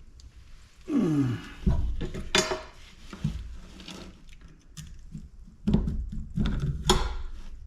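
Knocks and clatter from the housing of a large light bulb being handled and pried at while someone looks for a way to open it. About a second in there is a short creak that falls in pitch, followed by several sharp knocks spread through the rest.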